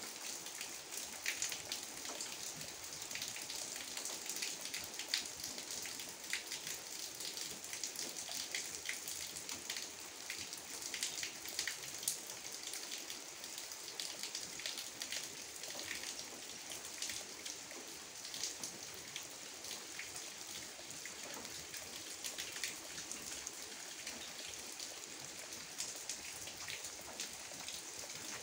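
Steady, gentle rain falling, with many individual drops ticking close by.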